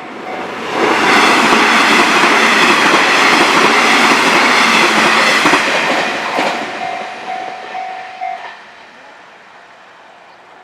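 Nishitetsu electric train passing close over a level crossing, loud for about five seconds and then fading away. The crossing's warning bell rings in a pulsing two-tone pattern as the train clears, and cuts off about eight and a half seconds in.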